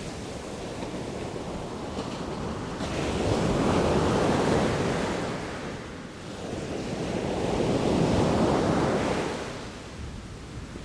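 Sea waves breaking and washing in, two swells of surf about four seconds apart, each rising and then ebbing away.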